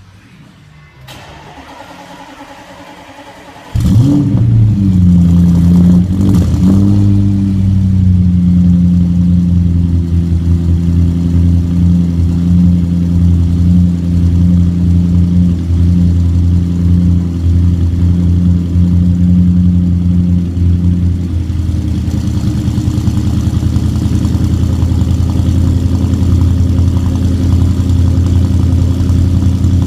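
Audi S6 4.0 V8 with straight pipes and a cat delete cold-starting: it fires about four seconds in with a loud flare, then settles into a fast cold idle. The idle drops to a lower, steadier pitch about 21 seconds in.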